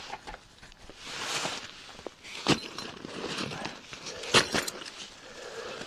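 Rustling of clothing and a backpack being taken off, with crunching in snow and two sharp clicks, about two and a half and four and a half seconds in.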